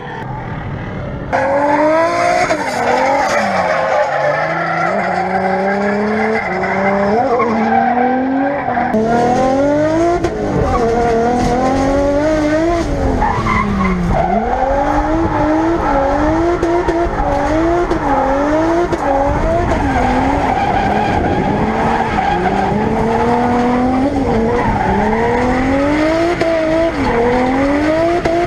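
Turbocharged RB25DET straight-six in a drift car, its revs climbing and dropping again and again as it drifts, with tyres screeching through the slides.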